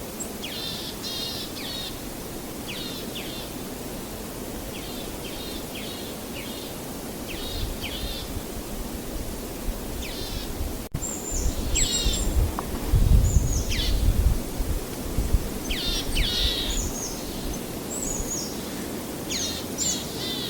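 Wild songbirds calling over and over in short chirps and quick descending notes, over a steady outdoor noise bed. A low rumble swells in the middle, and the sound cuts out for an instant about halfway through.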